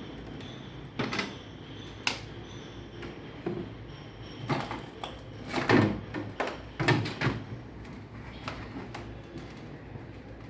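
Irregular knocks and clatters, about a dozen, the loudest cluster a little past the middle, over a steady low hum.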